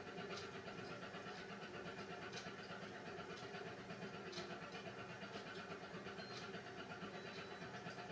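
Beko WMY81283LMB2 washing machine in the wash phase of a hand wash cycle: a steady motor hum as the drum turns, with a light click about once a second.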